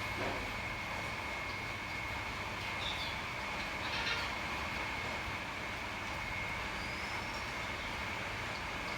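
Steady outdoor background noise with a constant high, thin drone, broken by a few short bird calls about three and four seconds in and a brief rising whistle near the end.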